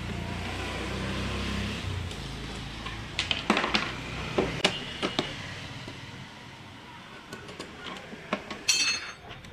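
Hand tools working on a scooter being taken apart: a low rumble fades over the first two seconds, then scattered knocks and clicks, and a short metallic clatter with a bright ring near the end.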